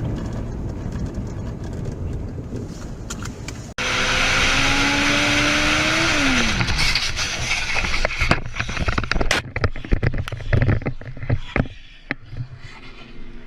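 Dash-camera recording of cars on the road: steady road and engine noise, then, after a cut, an engine tone rising slowly and falling away, followed by a run of sharp knocks, bangs and scrapes.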